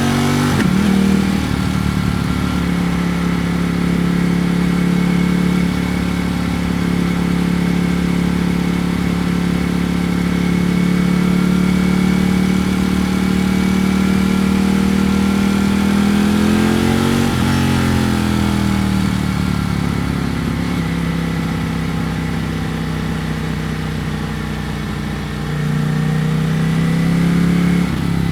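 Ducati Panigale V4 S's 90-degree V4 engine under way, holding a steady pitch for long stretches. About two-thirds of the way through the pitch drops and then climbs again; near the end the engine gets louder as it is opened up, and its pitch then falls away.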